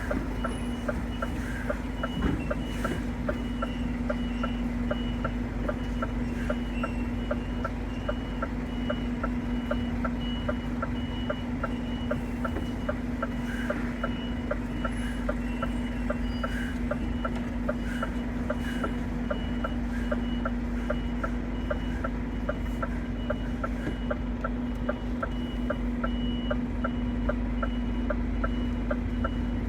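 Scania lorry reversing, its reverse alarm beeping steadily at about one and a half beeps a second over the diesel engine running at low speed.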